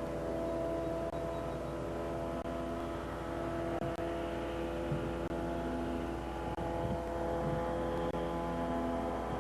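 Ultralight aircraft engine droning steadily in flight, its pitch holding nearly constant with a slight shift partway through, over a constant low hum.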